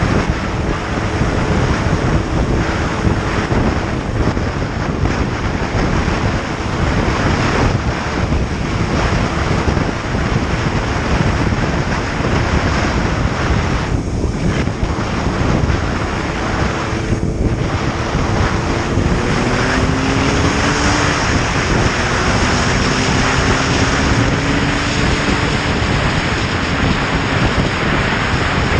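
Motorcycle on the move: a steady, loud rush of wind over the microphone, with the engine's hum underneath. Past the middle the hum rises in pitch, then drops and climbs again.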